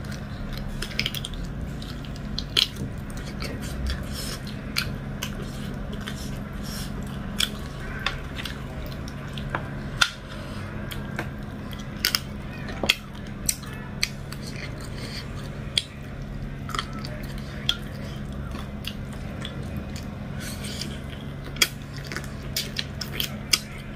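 Close-up eating sounds: chewing, biting and wet mouth clicks as dhido and chicken curry are eaten by hand, with sharp clicks scattered throughout. A steady low hum runs underneath.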